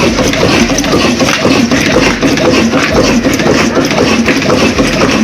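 Big old desi diesel engine running steadily, its exhaust beating out an even, rapid chug.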